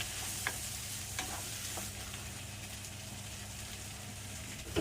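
Onions and crushed garlic sizzling in hot oil in a pan, with a steady hiss. A few sharp clicks of a utensil stirring them come in the first two seconds.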